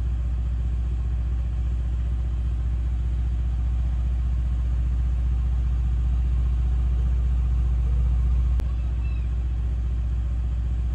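Car engine running at a steady idle, a deep even rumble. There is a click and a small drop in level about eight and a half seconds in, where the recording cuts.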